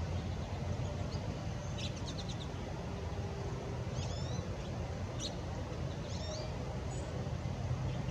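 Songbirds giving short chirps and calls in several brief clusters, about two, four, five and six seconds in, over a steady low rumble.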